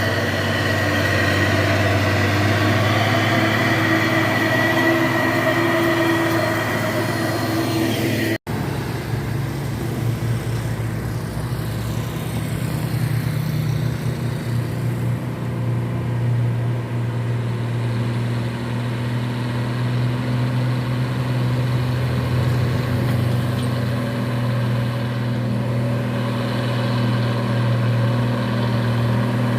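Truck engine running steadily, with a brief break a little over eight seconds in, after which the engine sound carries on with a slightly different tone.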